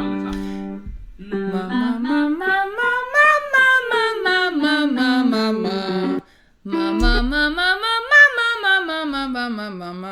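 A singer doing a vocal warm-up exercise: a scale that climbs note by note to the top and steps back down, sung twice with a short break between.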